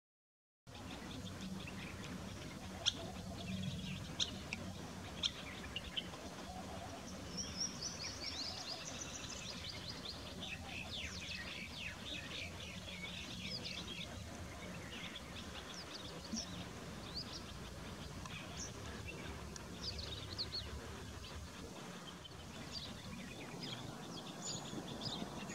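Birds chirping and calling: many short high chirps scattered throughout, with a quick run of high notes about eight seconds in, over a low steady hum.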